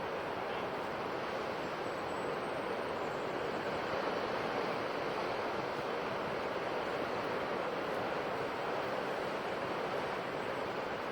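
Ocean surf washing on a shore: a steady, continuous rush of waves without sharp breaks.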